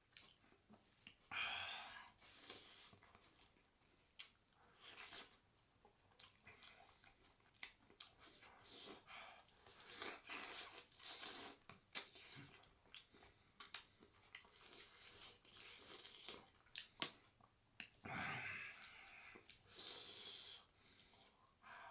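Close-miked eating sounds: chewing and wet mouth noises in irregular bursts, with a louder cluster past the middle and another near the end.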